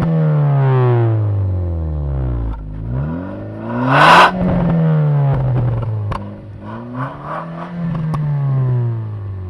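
Opel Astra G coupe's 2.2-litre 16-valve four-cylinder revved through an open aftermarket exhaust: a straight-through middle-silencer delete pipe and a Lexmaul Group A rear silencer. The revs fall, climb to a sharp, very loud bark about four seconds in, drop away, then rise and fall once more more gently. Very loud.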